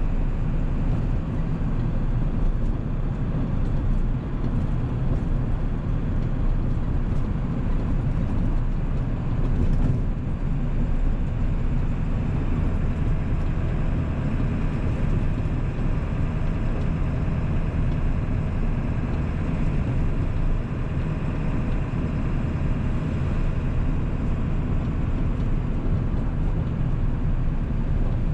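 1997 Ford 7.3 Powerstroke turbo-diesel V8 running steadily as the truck drives along.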